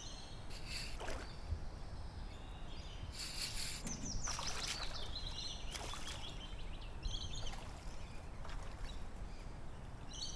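Birds chirping and calling, with high gliding calls clustered a few seconds in, broken by a few short rushes of noise over a low steady background rumble.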